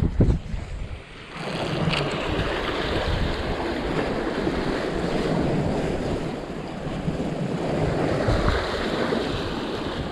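Surf washing against a rocky shore under strong wind that buffets the microphone, with a loud low thump right at the start.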